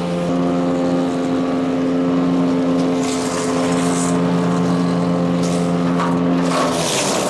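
PowerKing wood chipper shredder's Kohler CH440 single-cylinder engine running steadily at speed, with short bursts of higher hiss about three to four seconds in and again near the end.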